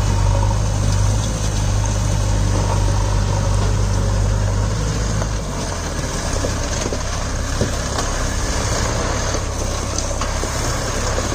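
Diesel engine of heavy earthmoving machinery running steadily, its low note shifting about halfway through, with a few faint knocks in the second half.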